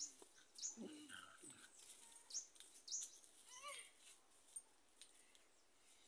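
Faint bird chirps: short, high calls that fall in pitch, scattered about a second apart, with a quick run of descending notes a little past the middle.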